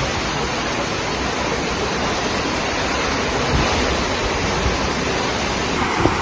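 Heavy rain falling, a steady dense hiss with no break.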